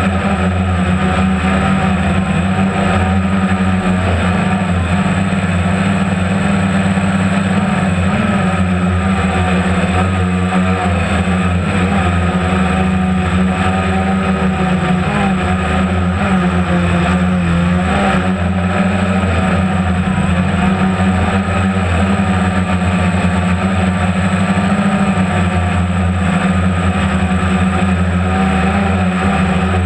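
Motorboat engine running steadily at constant speed, a low, even drone with a slight waver in pitch.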